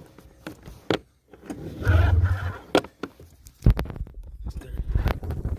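1995 Arctic Cat 580 EXT snowmobile's two-stroke engine being cranked over cold after sitting: one short crank about two seconds in, then the engine fires a little over a second later and runs unevenly.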